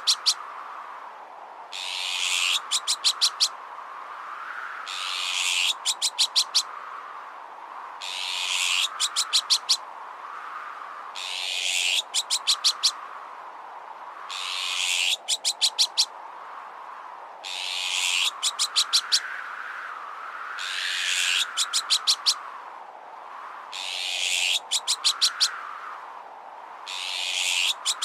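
Looped bird-deterrent sound effect. About every three and a half seconds a harsh, hissy, call-like burst of about a second is followed by about five quick sharp clicks, over a wavering whistle that rises and falls.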